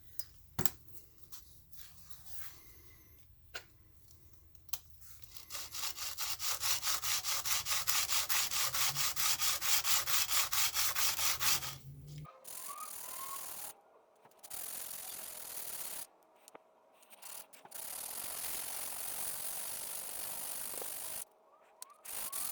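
Aerosol spray-paint can shaken hard, a rhythmic rattle at about four strokes a second, then sprayed in several steady hissing passes that stop and start abruptly.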